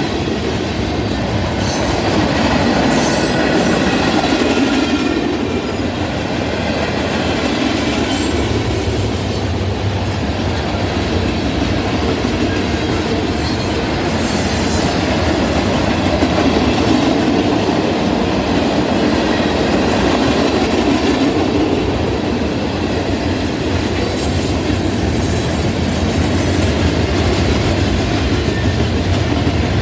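Mixed freight train's cars (tank cars, flatcars and boxcars) rolling past at close range, the wheels running on the rails with a steady loud rumble.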